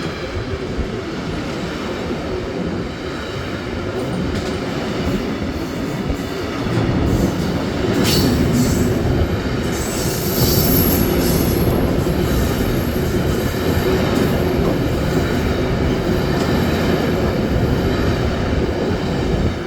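A train running past on the tracks, its wheels rumbling on the rails, getting louder about seven seconds in. A thin, high wheel squeal comes in about ten seconds in.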